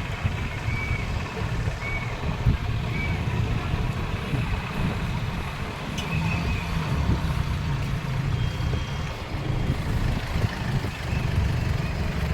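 Steady low rumble of road vehicles, with three short high beeps about a second apart in the first few seconds.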